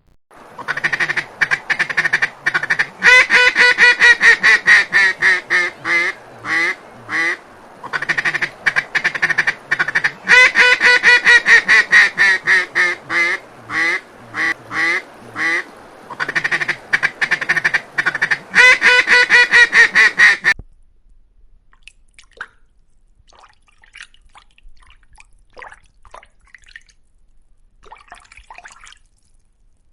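Duck quacking in fast runs of short calls, the runs coming again and again for about twenty seconds, then stopping suddenly. After that only faint scattered ticks.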